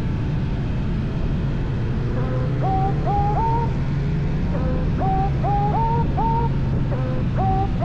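Kawasaki Z900's inline-four engine running under way with steady road and wind noise. From about two seconds in, a string of short rising tones repeats several times a second, each stepping up and levelling off.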